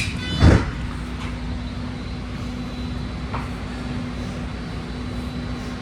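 Inside a BART train car standing at the platform: a single heavy thud about half a second in, then the car's steady electrical and ventilation hum with a low drone.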